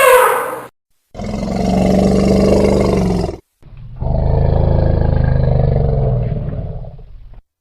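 Elephant calls: the end of a high trumpet sliding down in pitch, then two long, low, rough roars of about two and three and a half seconds, the second fading out.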